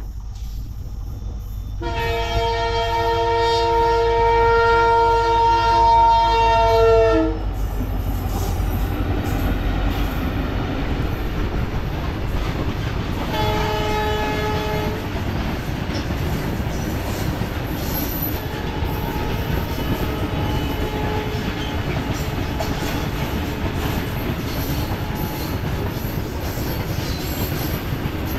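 Freight train of covered goods wagons passing. The locomotive sounds one long horn blast of about five seconds, whose pitch drops as it passes and cuts off. About six seconds later comes a second, short blast, and then the steady rolling noise of the wagons going by.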